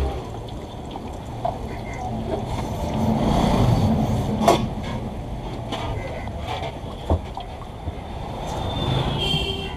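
Road traffic going by, a steady low rumble that swells as a vehicle passes about three seconds in and again near the end, with a couple of sharp knocks.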